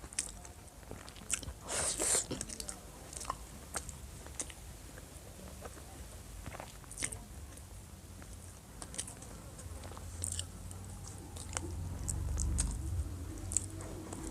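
Close-up eating sounds: chewing, with sharp mouth clicks and wet smacks at irregular intervals, a denser burst about two seconds in. A low rumble builds near the end.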